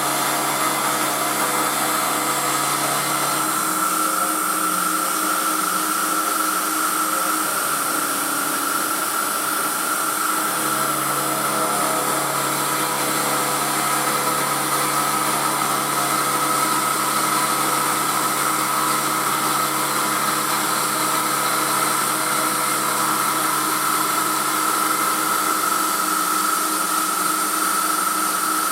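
Emco F1 CNC milling machine running through its program on a cast aluminium part, a steady mechanical sound with a constant high tone and lower tones that shift a few times.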